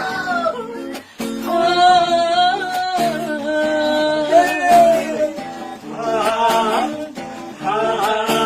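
Acoustic guitar with a man singing long, wavering held notes, with a short break about a second in.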